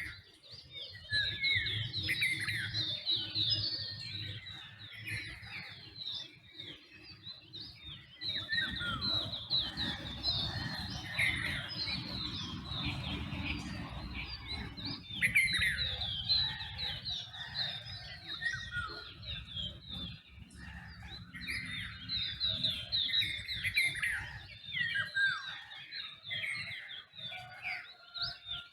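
Dawn chorus of many birds chirping and singing at once, with dense overlapping short chirps and quick falling whistled notes. A low rumble runs underneath through the middle of the stretch.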